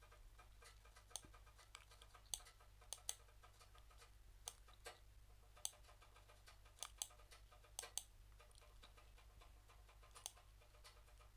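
Faint, irregular clicks of someone working at a computer, about fifteen spread unevenly over the stretch, over a low steady hum.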